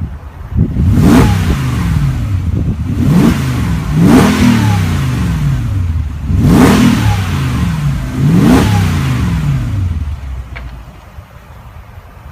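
Mercedes-Benz G550's 5.5-litre V8 revved in several short blips, each rising and falling back, then settling to idle near the end.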